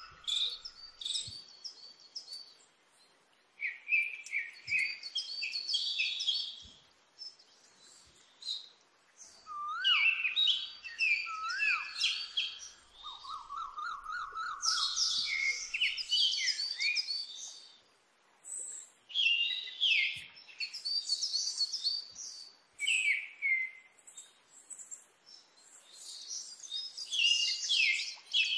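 Songbirds singing: bursts of chirps and trilled phrases every few seconds, with short gaps between them. A lower repeated trill comes near the start and again about thirteen seconds in, and two rising whistles come about ten seconds in.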